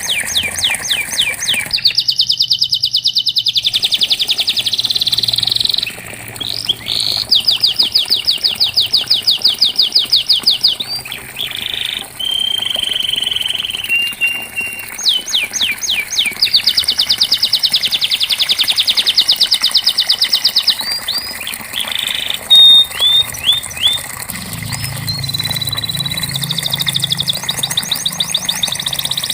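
Domestic canary singing a long song of fast trills: runs of rapidly repeated notes lasting a few seconds each, broken by brief pauses and short steady whistles. A faint low hum joins in during the last few seconds.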